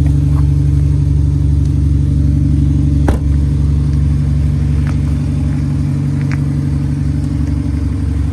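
Audi SQ5's 3.0-litre V6 biturbo diesel engine idling steadily, with a sharp click about three seconds in and a few faint ticks after.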